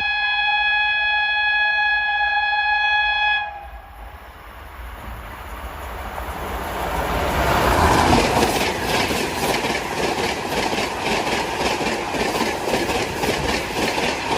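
Gatiman Express's WAP5 electric locomotive sounding a long, steady horn that cuts off sharply about three seconds in. Then a rushing roar of the train at 160 km/h builds up and passes, with the wheels clacking over rail joints in a fast, even rhythm.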